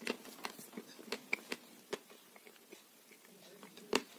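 Close-up mouth sounds of a person chewing French fries with lips closed: scattered soft clicks and smacks, quieter in the middle, with the loudest click near the end.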